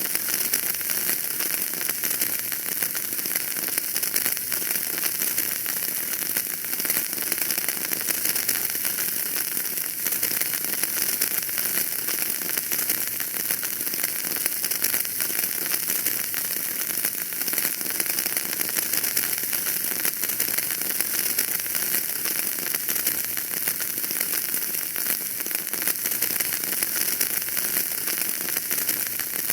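Wood fire burning in a fireplace, with dense continuous crackling and hiss.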